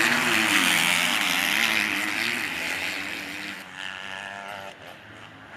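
Motocross bike engines revving up and down, the pitch rising and falling with the throttle. The sound fades away over the first four seconds or so, leaving a fainter engine near the end.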